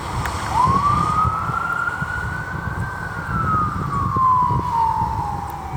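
Emergency vehicle siren sounding in wail mode: one slow cycle rising for a couple of seconds, falling for about three, and starting to rise again near the end, over a low rumble.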